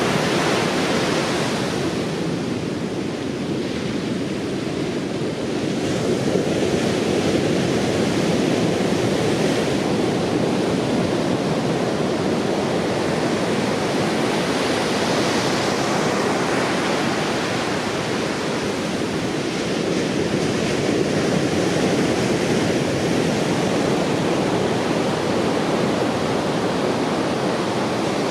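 Heavy surf from a typhoon swell: a continuous roar of breaking waves, easing and building again every several seconds.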